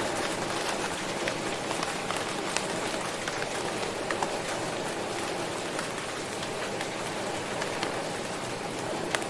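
Steady rain falling, a continuous hiss with scattered sharper drop impacts.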